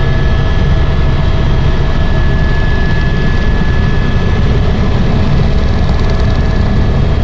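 Helicopter running steadily: a loud, constant low rumble with a steady high whine over it.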